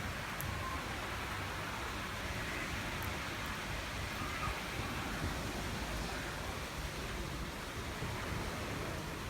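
Rain falling into a pool: a steady, even hiss of drops hitting the water's surface.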